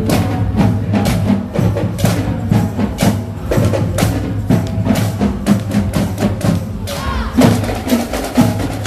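Marching showband playing, led by drums and other percussion with dense, rapid strikes.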